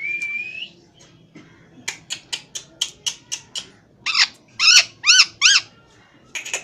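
Pet parrot calling: a short whistle, then a quick run of about eight sharp chirps, then four loud squawks in a row, and one more near the end.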